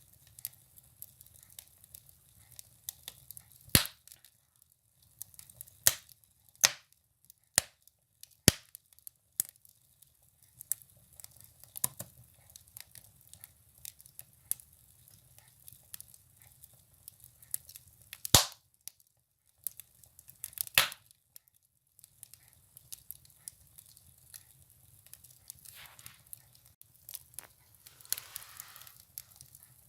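Firewood burning in a stove: irregular crackling with several sharp, loud pops spread through, and a brief hiss near the end.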